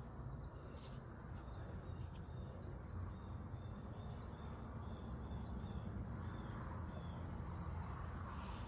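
Quiet background: a steady low hum with a faint, high, evenly repeating chirp through the middle.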